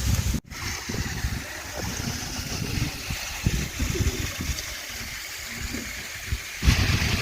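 Water from a small waterfall splashing and running as a steady rush. The sound drops out briefly about half a second in, and a louder low rumble comes back near the end.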